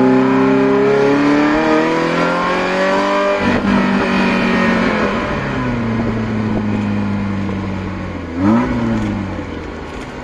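Ferrari Mondial 3.2's V8 through a custom exhaust, heard from inside the cabin. The engine pulls with a rising pitch for about three seconds, then a gear change breaks it off. The revs then sink slowly as the car eases off, and near the end there is a short blip of the throttle that rises and falls.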